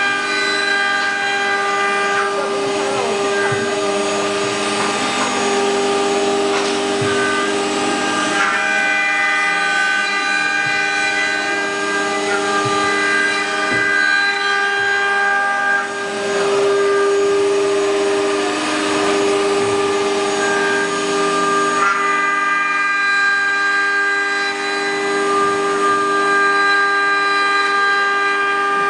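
CNC wood router spindle running with a steady high whine of several stacked tones, its pitch and strength shifting slightly a few times.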